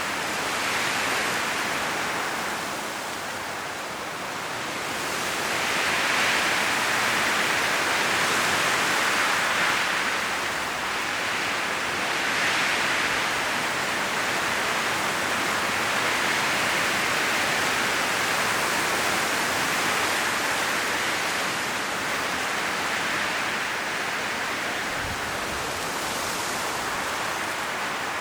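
Strong wind blowing through a forest's trees, the leaves rustling in a dense hiss that swells and eases in slow gusts every few seconds. A brief low rumble sounds near the end.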